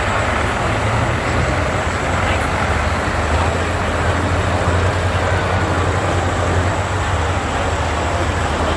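Light Pro Stock pulling tractor engine running loud and steady, a continuous drone with a strong low hum.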